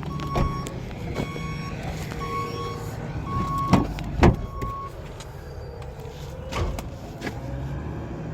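Repeated electronic beeps, one steady tone sounding about once a second, over a steady low vehicle hum, with two sharp knocks about halfway through.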